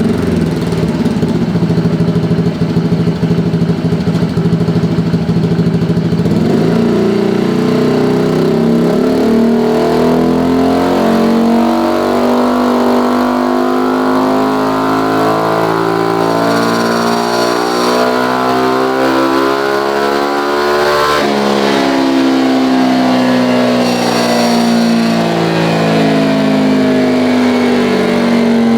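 Automatic scooter engine breathing through an aftermarket EvoX STD carbon-steel exhaust with its DB killer fitted, running on a dyno. It runs low and steady for about six seconds, then the throttle opens and the revs climb steadily, drop suddenly about two-thirds of the way through, and then hold high.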